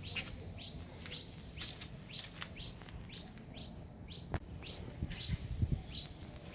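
A bird chirping over and over, quick high chirps that each drop in pitch, about two a second. There is a sharp click about four seconds in and a few low thumps soon after.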